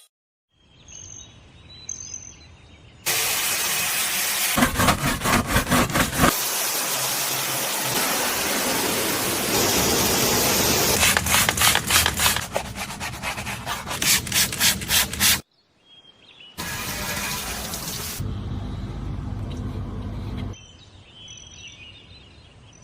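Pressure washer spraying water in several separate bursts, a loud steady hiss that at times pulses quickly as the jet sweeps, each burst starting and stopping abruptly.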